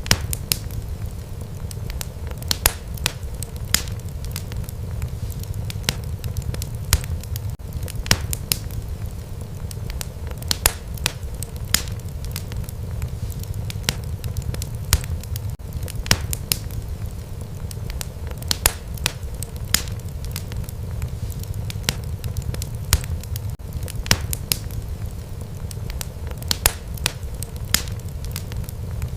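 Wood fire burning in a fireplace: a steady low rumble of flames with sharp, irregular crackles and pops, several a second.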